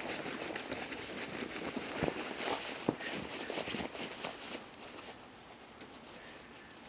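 Footsteps crunching and rustling through dry fallen leaves, many small crackling steps that ease off about five seconds in.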